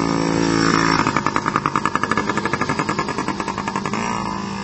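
A Yamaha PW50 mini dirt bike's small two-stroke single-cylinder engine running under throttle. About a second in, its note starts pulsing rapidly. Near the end it fades.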